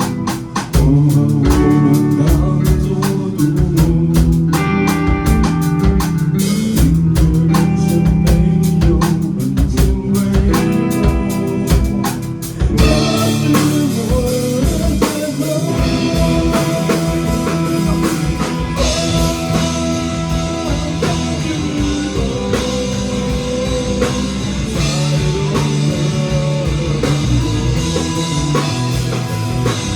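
Live rock band playing an instrumental passage on drum kit and electric guitar. About halfway through, the band comes in fuller and louder.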